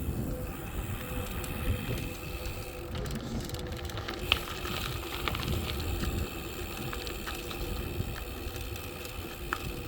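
Bicycle being ridden: steady low rumble of tyres and wind on the microphone, with a few sharp clicks and rattles from the bike.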